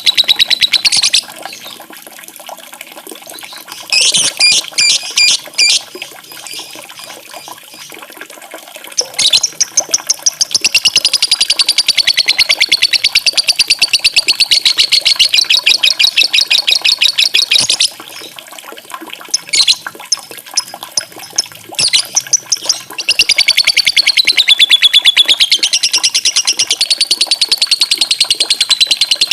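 Songbird song: very rapid, high-pitched trills running several seconds at a time, drifting slightly in pitch, broken by short stuttering bursts. A faint steady sound of running water lies beneath.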